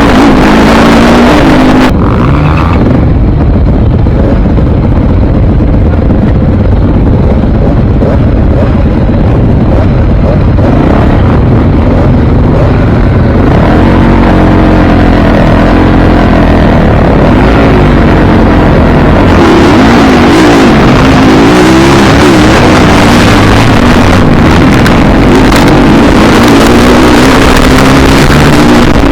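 Dirt bike engine running loud and close, its pitch rising and falling again and again as the throttle is worked, over a heavy low rumble.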